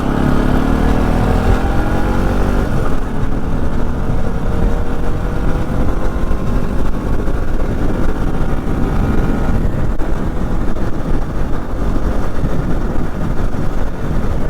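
Motorcycle engine running under way, its pitch climbing for the first few seconds as the bike accelerates, then holding steady at cruising speed.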